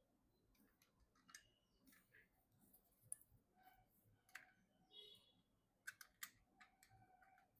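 Faint, irregular small clicks and taps of hands handling PC hardware parts, with a brief squeak about five seconds in.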